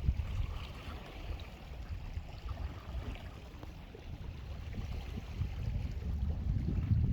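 Wind buffeting the microphone outdoors by the sea: an uneven low rumble that grows stronger near the end.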